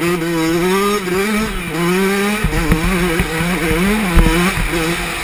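Yamaha 125 motocross bike engine revving, its pitch rising and falling with the throttle, heard from a helmet-mounted camera. From about halfway in, low knocks come through as well.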